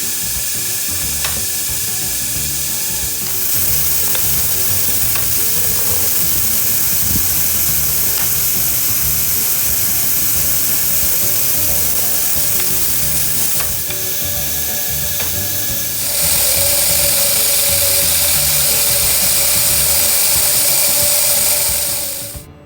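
CNC machine milling POM (acetal) plastic: a steady, hissing cutting noise that grows louder in stretches and gains a steady whine in the last few seconds, then cuts off abruptly near the end.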